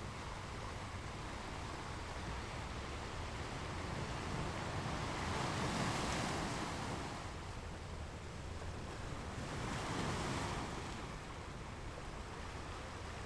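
Ocean waves washing onto a shore: a steady hiss of surf with two louder swells as waves break, the bigger one about halfway through and a smaller one a few seconds later.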